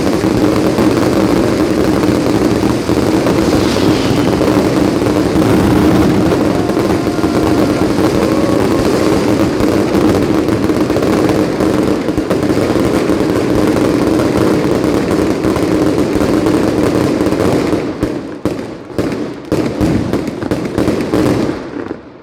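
Mascletà firecrackers going off in a dense, unbroken barrage of bangs: the ground-shaking 'terremoto' finale. About eighteen seconds in it breaks up into separate bangs, which thin out and stop near the end.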